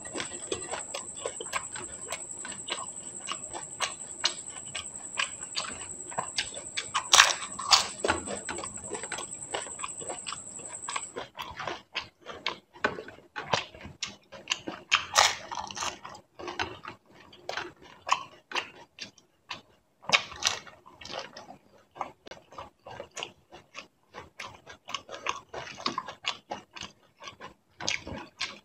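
Close-up chewing and crunching of crisp pani puri shells, a dense run of irregular crackles and clicks with wet mouth sounds. A steady high-pitched whine runs underneath and stops about eleven seconds in.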